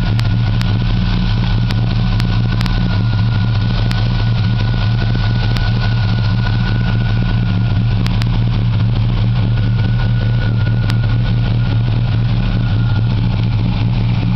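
1986 Oldsmobile Cutlass Supreme's 350 V8 idling steadily, heard with the hood open, with a faint thin whine above the engine note that fades out near the end.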